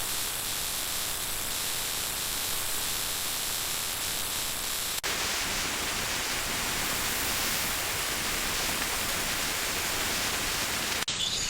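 Steady hiss of noise, like static, brighter in the high end, with a momentary break about five seconds in and again near the end.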